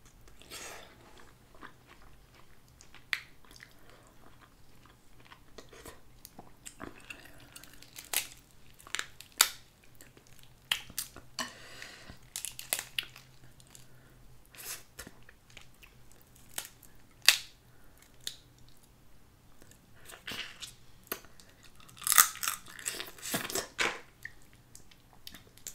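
Close-miked chewing and biting of Dungeness crab meat in butter sauce, with irregular sharp clicks and cracks as crab shell is picked and pulled apart by hand; a louder run of them comes near the end.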